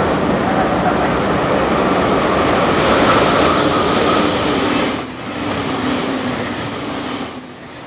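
JR Kyushu 883 series Sonic electric limited express passing close at speed, a loud rush of wheels on the rails. The noise drops about five seconds in and fades as the train moves away.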